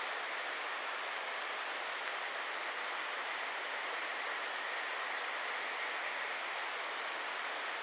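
Steady outdoor ambience: an even rushing hiss with a steady high-pitched buzz above it.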